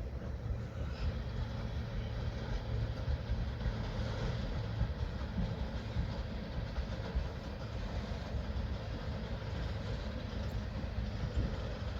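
Petroleum tanker freight train running past, a steady rumble of wheels on the rails.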